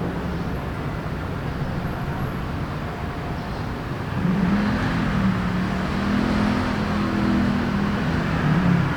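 Steady city traffic noise. About four seconds in, a motor vehicle's engine hum grows louder and runs on to the end.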